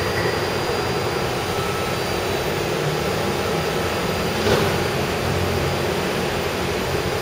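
Taipei Metro 371-type train running along the line, heard from on board: a steady rumble and rush of wheels and traction motors, with one short click about four and a half seconds in.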